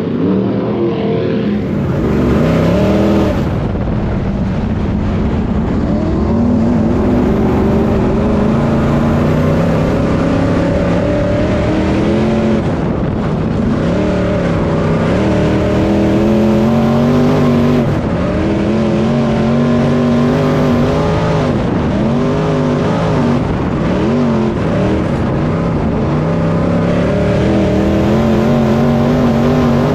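Several race-car engines running laps together, their notes rising and falling as the cars accelerate down the straights and lift for the corners, one engine sweeping past after another.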